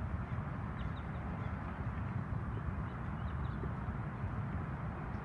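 Birds at a lake calling faintly, a few short high calls over a steady low rumble.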